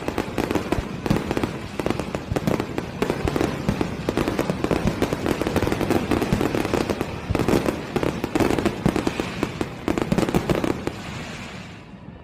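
Aerial fireworks going off in a rapid, dense run of bangs and crackles, which thins out and fades about eleven seconds in.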